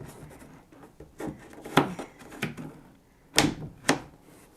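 Knocks and clicks of kayak hardware pieces being handled and set against the kayak's hull: about five sharp separate strikes, the loudest a little under two seconds in and at about three and a half seconds.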